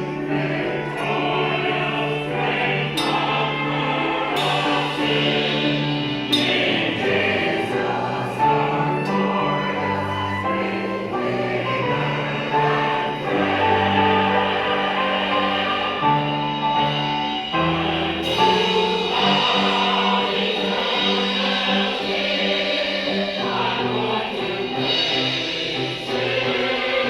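Church chancel choir singing a gospel-style cantata number, with sustained chords over a low bass line.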